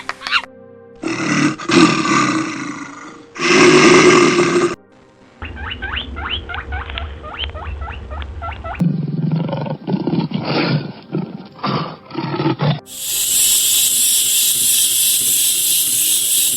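A string of different animal calls cut back to back, with loud roars in the first seconds, then rapid repeated calls, then a harsh noisy sound near the end, over a faint music bed.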